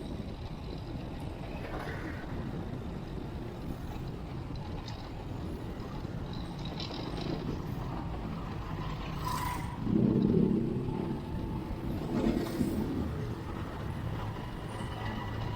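Traffic noise heard from a moving bicycle: a steady rush of passing motor vehicles and road noise. A louder vehicle sound rises about ten seconds in and comes again about two seconds later.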